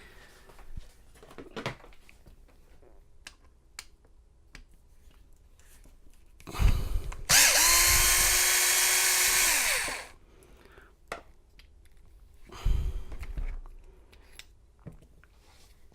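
Electric drill-driver running for about three seconds in the middle at a steady pitch that drops as it winds down, with scattered clicks and knocks of handling lock parts around it.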